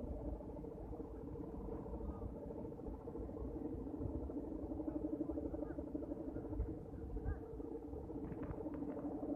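Steady, wavering drone of several held tones from kite hummers on large Balinese kites flying in strong wind, with wind rumbling on the microphone underneath.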